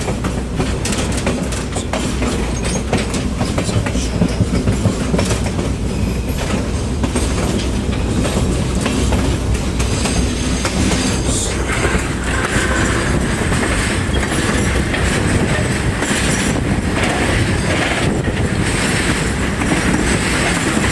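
Passenger excursion train running, heard from aboard: a steady rumble of steel wheels on the rails with clickety-clack from the rail joints, and a thin wheel squeal that comes in about halfway through.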